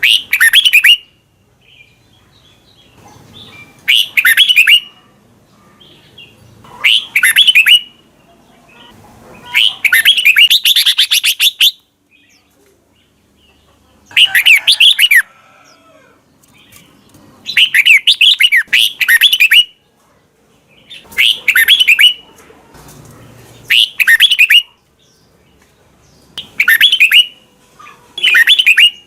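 Red-whiskered bulbul singing short, loud, rapid warbled phrases, repeated about every three seconds with short pauses between them.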